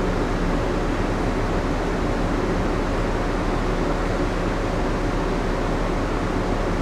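Steady hum inside the moored cargo-passenger ship Ogasawara Maru from its ventilation and onboard machinery: a low drone under an even hiss, unchanging throughout.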